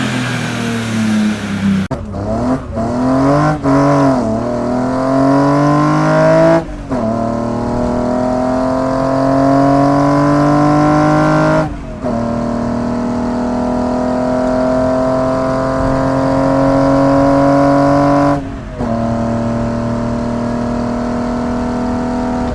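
BMW E30's swapped M54B30 inline-six on individual throttle bodies, revved in quick blips and then pulling hard through the gears. The note rises steadily in long pulls, broken by three upshifts, about 7, 12 and 18 seconds in.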